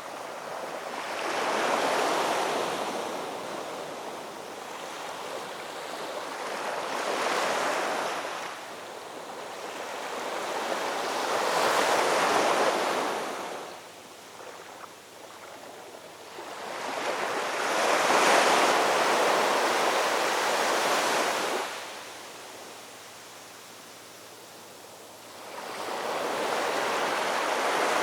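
Ocean waves surging in and washing back in repeated swells, about one every five seconds, with one longer swell past the middle and quieter lulls between.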